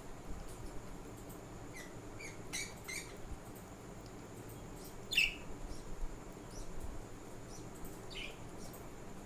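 Budgerigars chirping: a quick run of short high chirps a couple of seconds in, a louder falling chirp about five seconds in, and another near the end.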